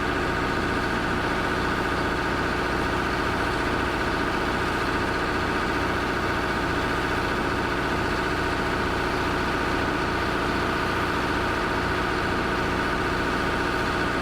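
A vehicle engine running steadily, a continuous unchanging drone.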